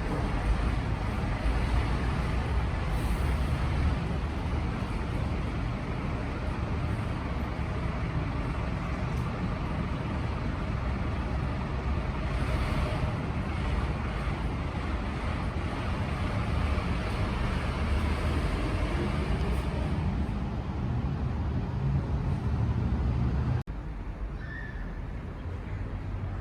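Street traffic: vehicle engines running and road noise, a steady rumble heavy in the low end. Near the end it cuts off suddenly to a quieter background.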